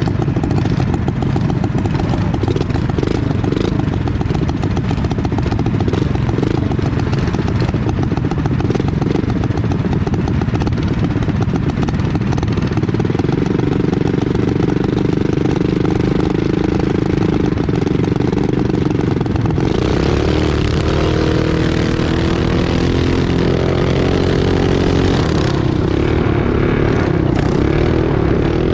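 Small single-cylinder mini bike engine running hard, its pitch rising and falling with the throttle. About twenty seconds in the sound changes and turns brighter and louder in the upper range.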